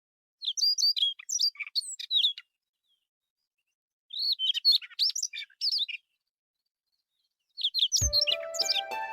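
A songbird singing quick, high warbling phrases: two phrases of about two seconds each with a pause between, and a third starting near the end. Music comes in during the last second.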